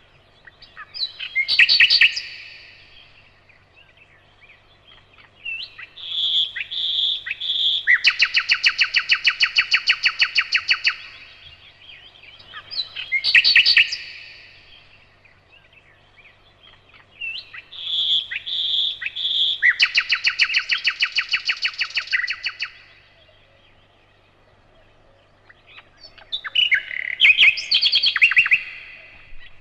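Nightingale singing in separate phrases with pauses of a few seconds between them. Twice a phrase opens with three loud piping notes and runs into a long, rapid, rattling trill; the other phrases are short and varied.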